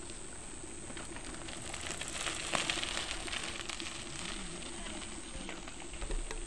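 Campfire crackling, with scattered sharp pops and a hiss that swells a couple of seconds in.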